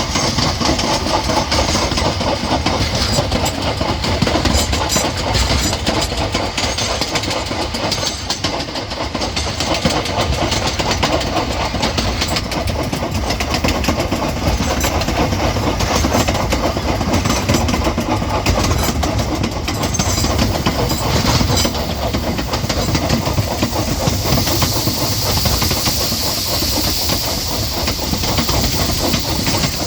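Vintage railway train running, a steady rattle and clatter of wheels on the track. A hiss, like escaping steam, grows louder near the end.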